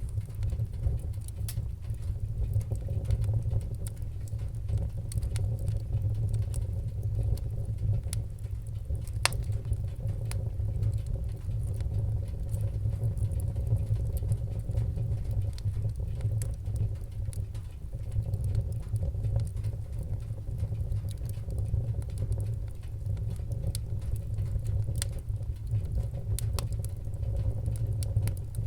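Wood fire crackling, with scattered sharp pops, one louder pop about nine seconds in, over a steady low rumble of the burning fire.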